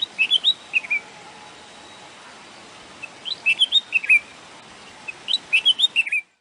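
A bulbul singing: three short phrases of quick whistled notes, one at the start, one about three seconds in and one about five seconds in, over a steady faint hiss.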